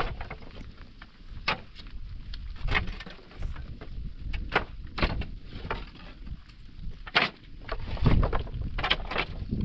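Wind rumbling on the microphone, with irregular sharp knocks and clicks roughly every half second to second.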